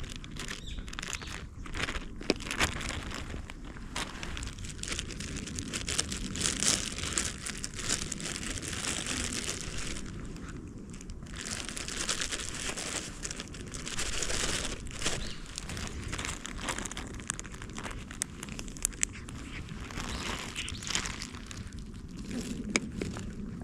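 Plastic packaging crinkling and rustling as it is handled, on and off, with small crackles.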